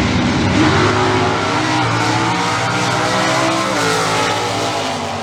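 Two stock-eliminator drag cars, a 1972 Ford Mustang with a 351 Cleveland V8 and a 1986 Camaro, launching at full throttle with automatic transmissions and accelerating away down the strip. The engine note climbs in pitch, drops twice at the gear changes, and fades near the end.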